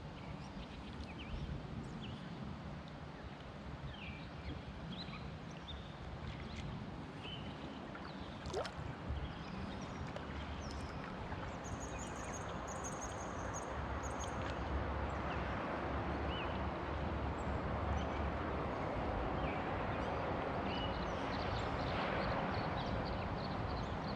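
Water washing and lapping around a kayak as it is paddled, a steady wash that grows louder over the second half, with small chirps and ticks over it.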